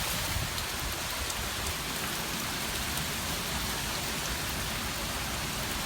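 Hurricane Matthew's rain and wind: a steady, even hiss of hard rain with a low, flickering rumble of wind underneath.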